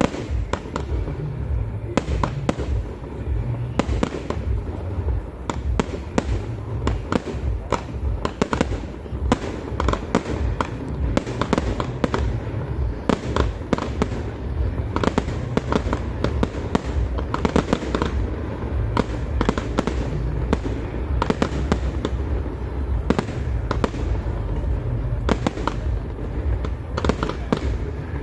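Fireworks display: a dense, continuous barrage of bangs and crackling bursts, heavy with low booms.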